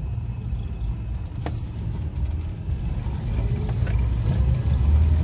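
High-mileage Ford pickup's stock engine running as the truck is driven, a steady low rumble that grows louder toward the end. A single short click about a second and a half in.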